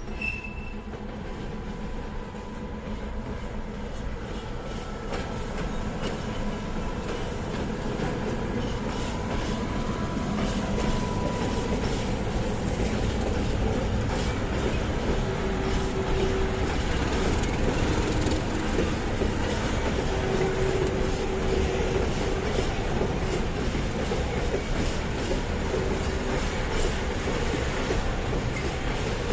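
A train rolling through the station, its wheels clattering over the rails. It grows louder over the first dozen seconds and then holds steady, with a few short squeals now and then.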